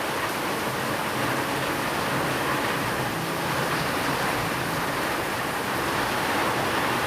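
Steady rain, a continuous even hiss with no separate drops, thunder or sudden events standing out, and a faint low steady tone beneath it.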